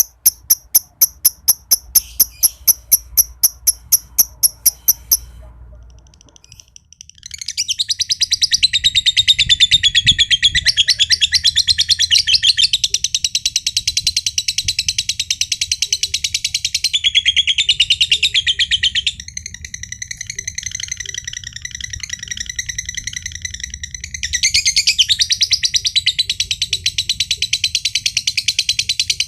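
Green (josan) lovebird calling a rapid string of sharp ticks, about six a second, for the first five seconds. After a short pause it breaks into a long, unbroken, high-pitched rapid chatter, the ngekek song. The chatter grows quieter for a few seconds past the middle and comes back strong near the end.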